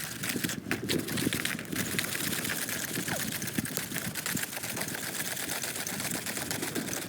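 Popcorn kernels rattling in a shake-style popcorn pan shaken over a campfire: a dense, rapid clatter with two short breaks in the first two seconds.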